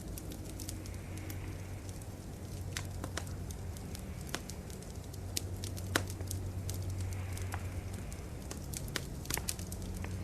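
Wood fire crackling, with irregular sharp pops and snaps, a few louder ones, over a steady low hum.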